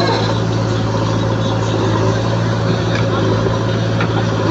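A diesel engine running steadily at a constant speed, a low even drone with no change in pitch.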